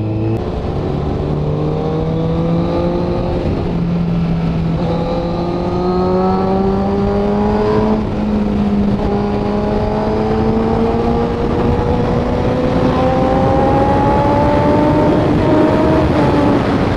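Honda CBR1000RR's inline-four engine pulling steadily up through the revs, with a gear change about eight seconds in and then another long climb in pitch, over steady wind rush.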